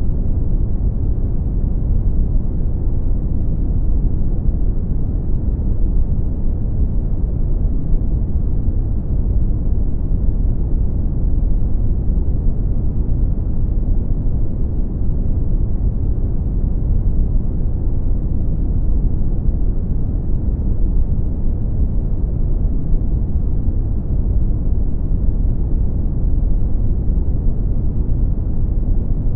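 Steady brown noise, a deep, even rumbling hiss with most of its weight in the low end and little above the midrange.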